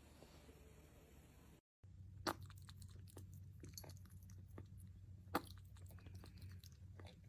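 Faint, irregular crunching clicks over a low hum, with two louder clicks about two and five seconds in. The first second and a half is near silence.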